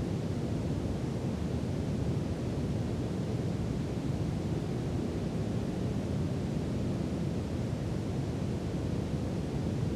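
Brown noise: a steady, deep rumbling hiss with its weight in the low end and no changes.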